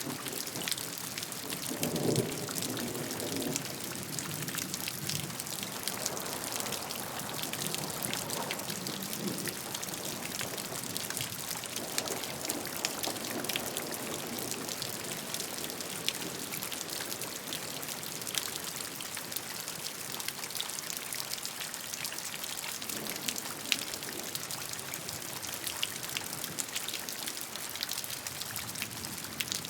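Steady rain falling, a dense patter of drops, with a few soft low rumbles swelling and fading about two, twelve and twenty-three seconds in.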